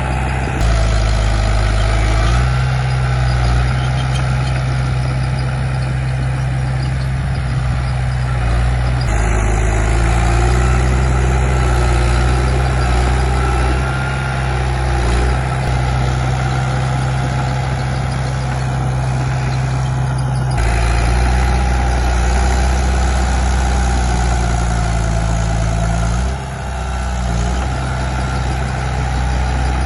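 The diesel engine of a Komatsu D31P bulldozer running steadily and loudly. Its note shifts abruptly twice, once about a third of the way in and again about two-thirds in, and dips briefly near the end.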